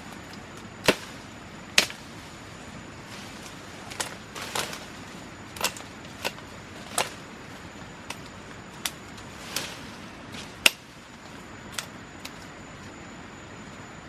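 A large bush knife chopping at wood: about a dozen sharp, irregularly spaced strikes, two of them much louder than the rest, over a steady background hiss.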